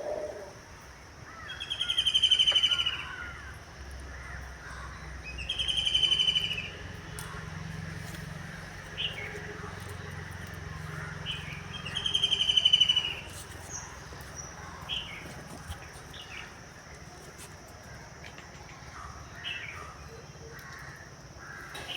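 Birds calling in a wooded setting: three loud, rapid trilled calls about a second long, with shorter chirps between them, over a steady high-pitched hum.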